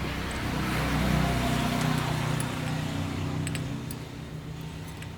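A motor vehicle's engine running, with a steady low hum; the sound swells to its loudest about a second in and fades away by about four seconds in.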